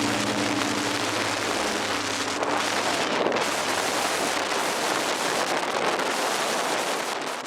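Strong mountain wind rushing steadily, an even hiss with little low rumble, fading out near the end.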